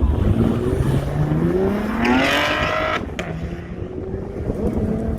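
Car engine accelerating hard, its pitch climbing for about three seconds, then dropping suddenly and starting to climb again near the end.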